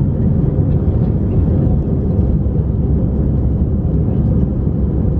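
Airbus A319 cabin noise heard from inside the cabin: a loud, steady rush of jet engines and airflow, with a steady hum running under it.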